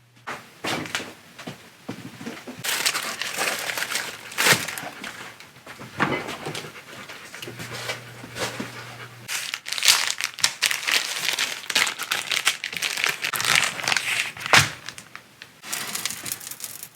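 Kitchen handling noise: steady rustling and scraping, with a few sharp knocks, about halfway through and again near the end.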